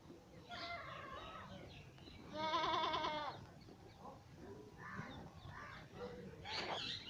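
Jamunapari goats bleating. A call about half a second in is followed by a long, quavering bleat around two and a half seconds in, which is the loudest, then fainter calls near the end.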